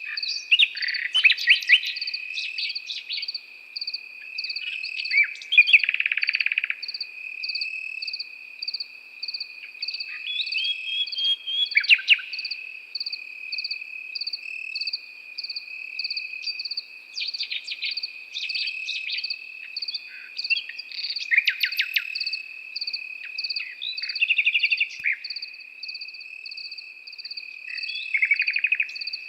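A nightingale singing in phrases of rapid repeated notes and trills every few seconds, over crickets: one trilling steadily, another chirping in a pulse about two or three times a second.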